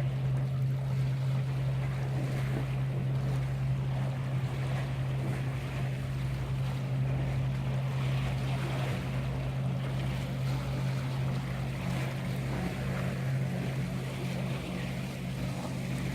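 Boat engine running steadily as a low, even hum, with wind and sea water washing underneath.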